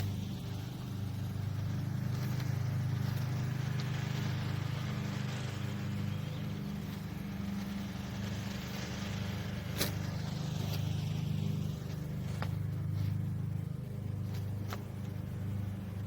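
A steady low motor hum, with a few faint sharp clicks in the second half.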